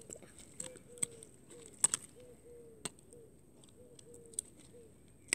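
A bird cooing in a steady run of short, low, slightly falling notes, with a few light clicks of plastic straws knocking in a plastic tub as a mixture is stirred.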